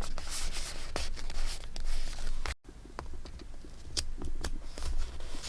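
Paper and stationery being handled: rustling with light taps and clicks, broken by a sudden brief silence about halfway through.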